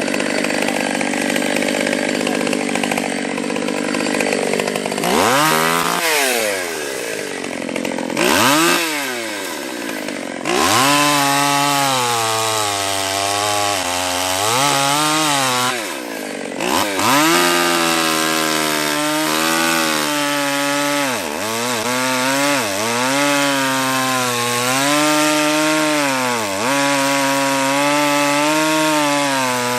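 Small two-stroke chainsaw, a Stihl 020, cutting up branches. Its engine note dips and climbs back over and over as the saw loads in each cut and revs out again.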